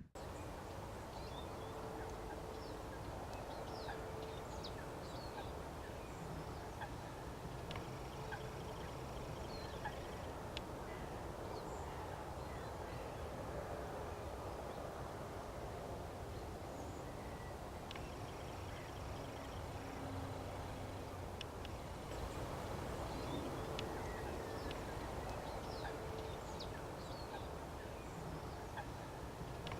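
Waterfowl flock calling on a wetland: a steady mass of low chatter with many short, high calls scattered through it.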